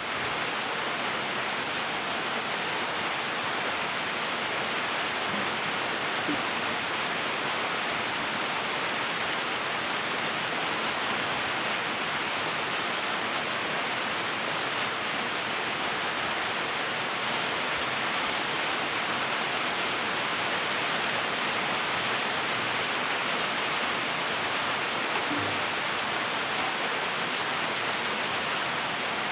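Light rain falling steadily: an even hiss with no single drops standing out.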